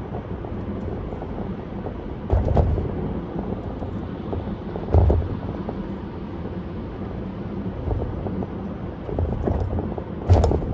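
Car travelling at speed: steady road and tyre noise, with three short, louder thumps spaced a few seconds apart.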